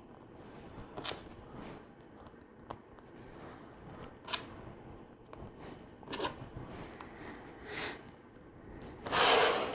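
LEGO pieces being handled and pressed together: scattered light plastic clicks, then a louder half-second rustle near the end.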